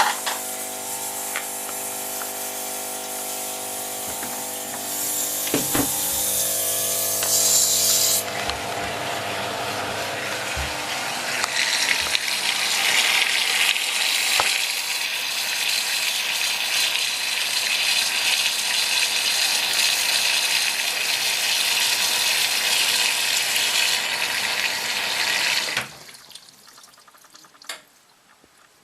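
Hoover HTC 172 front-loading washing machine filling for its prewash: water rushes steadily through the inlet, with a hum in the first few seconds. The water cuts off abruptly near the end as the fill stops.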